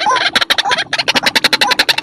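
Lure recording of white-breasted waterhen calls: a fast, harsh run of clicking notes, about seven a second, with a short rising note every half second or so.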